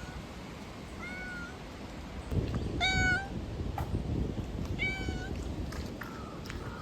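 Ear-tipped stray cat meowing three times, a faint meow about a second in, then the loudest meow near the middle and a third a couple of seconds later, over a low rumbling noise.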